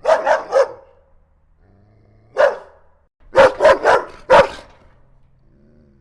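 A dog barking: three quick barks, a single bark a couple of seconds later, then a run of four more.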